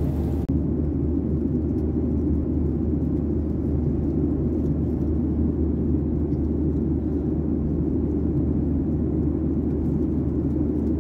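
Steady low drone inside the cabin of a Boeing 737-800 in cruise: engine and airflow noise.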